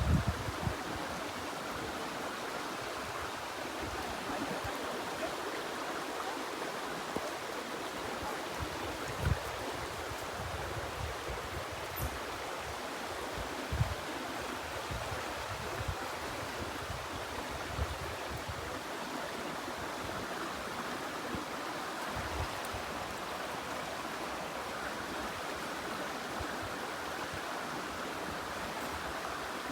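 Flowing stream water making a steady, even rush, with a few brief low bumps of wind on the microphone.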